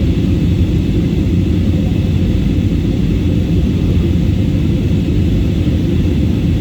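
Jet airliner cabin noise during takeoff: a loud, steady low rumble from the engines and airflow, with a faint higher whine above it.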